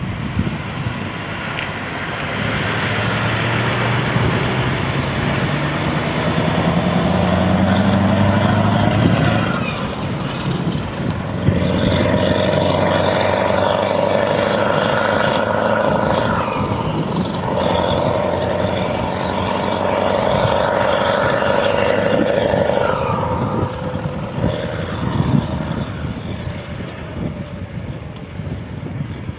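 Scania R500 V8 diesel engine with an open exhaust (no silencer), accelerating with its note rising, easing off for about a second near the ten-second mark, then pulling again for a long stretch before fading near the end.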